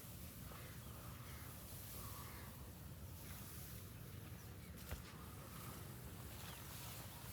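Faint outdoor field ambience: a low steady rumble with a few faint bird calls, and a single sharp click about five seconds in.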